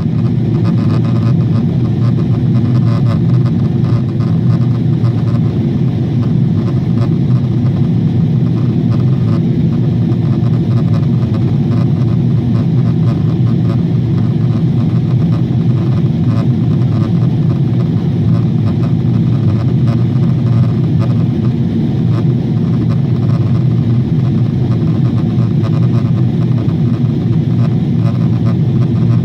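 Steady drone of a Boeing 777's engines and airflow, heard inside the passenger cabin in flight, with a low hum holding an even pitch.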